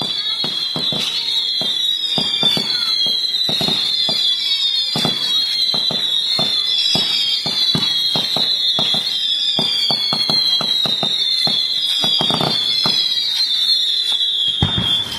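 Fireworks firing a rapid run of whistling shots: overlapping shrill whistles, each sliding slowly down in pitch, mixed with a steady patter of sharp pops and cracks. The whistling stops near the end.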